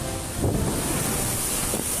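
Strong wind rushing over the microphone, loud and gusting, with a heavier surge about half a second in.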